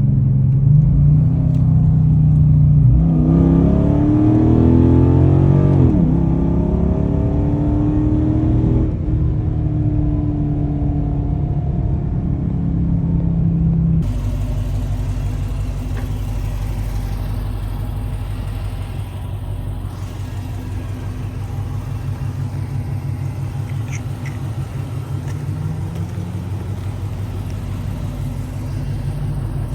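2012 Dodge Charger Super Bee's 6.4-litre 392 HEMI V8 on the road, its pitch rising and falling as it accelerates through the first half. After an abrupt change about halfway, it settles into a steady low rumble.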